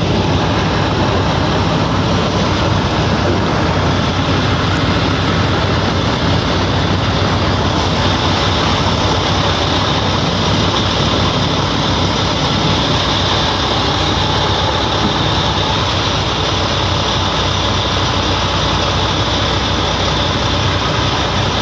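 Heavy tow truck engine running steadily under a constant loud rush of noise, with no change in pitch or level.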